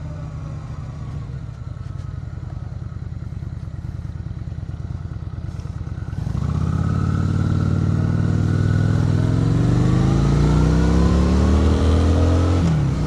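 Motorcycle engine idling at a stop with an even low pulse, heard through a mic inside the rider's helmet. About six seconds in, it pulls away and accelerates, its pitch climbing steadily under rising wind noise until it drops sharply near the end, as at a gear change.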